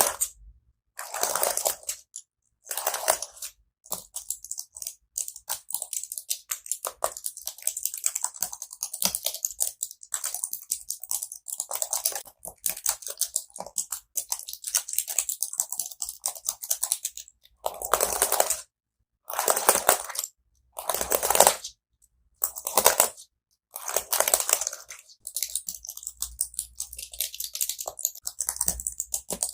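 Keyboard keys being tapped and clattered in quick bursts, each about a second long, with short pauses between.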